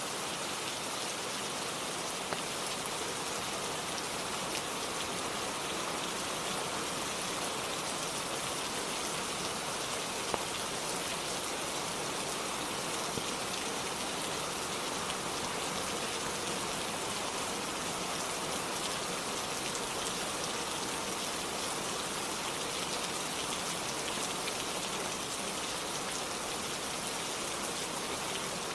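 Steady rainfall, an even unbroken hiss with a few single sharp ticks of drops here and there.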